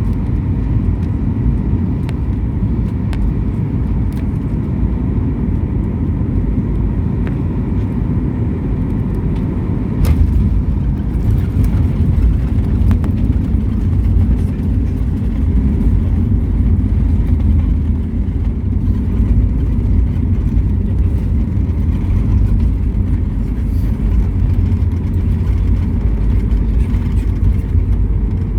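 Steady low rumble of an airliner's cabin as it rolls on the ground after landing, with engine noise and a faint hum. The rumble grows louder about ten seconds in and then holds steady.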